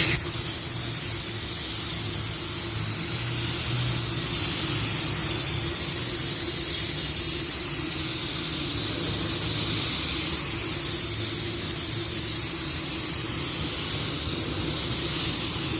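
Compressed-air paint spray gun hissing steadily as it lays a coat of clear coat, the gun set at 2 bar air pressure. A steady low hum runs underneath.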